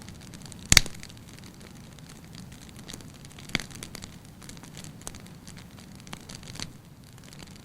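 Wood fire crackling in a fireplace: scattered small pops over a low steady hiss, with one loud crack about a second in and another sharp pop a few seconds later.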